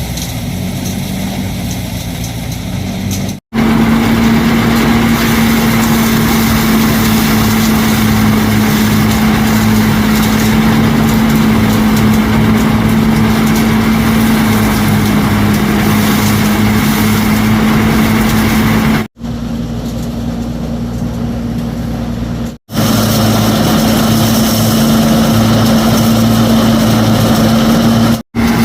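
A small engine running steadily with a constant pitch, cut off abruptly a few times.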